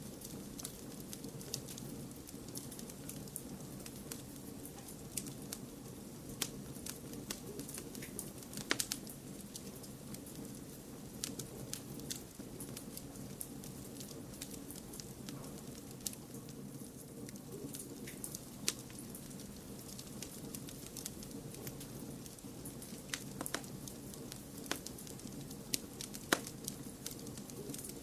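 Fireplace fire crackling: irregular sharp pops and snaps over a steady low noise.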